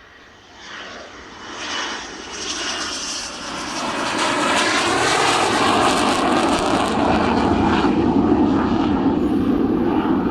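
Panavia Tornado GR4 jet passing close by on its twin RB199 turbofans: a high whistle grows quickly louder over the first four seconds, then gives way to a loud, steady rumble as it goes past.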